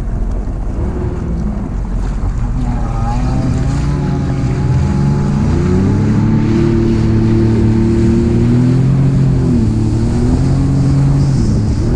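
Jet ski engine running and picking up speed, its pitch climbing in two steps in the first half and then holding steady, with wind noise on the microphone.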